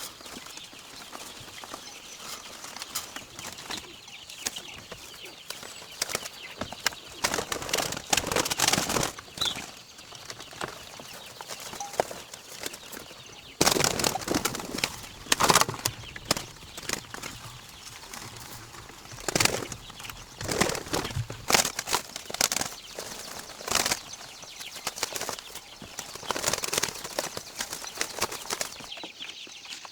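Pigeons flapping their wings in repeated short, irregular bursts.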